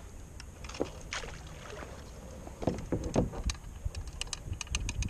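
Knocks and light clicking of fishing gear being handled in a kayak while a hooked trout is played, over a low rumble of wind on the microphone. The knocks come about three seconds in, and a run of quick light clicks follows near the end.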